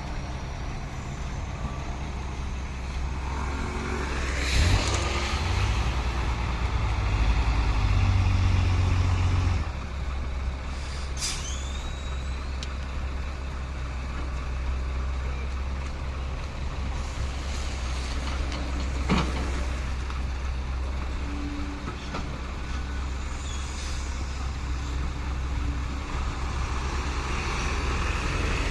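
Heavy diesel dump truck engine running steadily, louder for several seconds near the start, with a few short sharp sounds over it.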